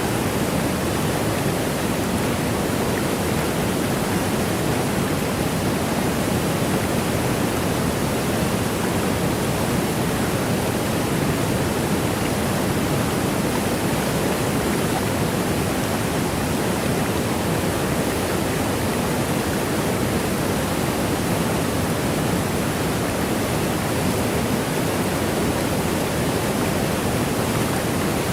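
Waterfall: a steady, unbroken rush of falling water, fullest in the low range, with no change in level.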